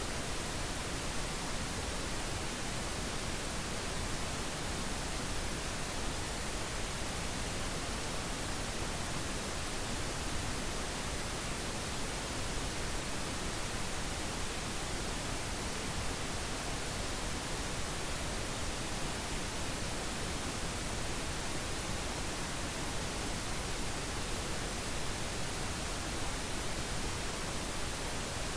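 Steady synthetic pink noise: an even, unchanging hiss spread across all pitches, weighted slightly toward the low end.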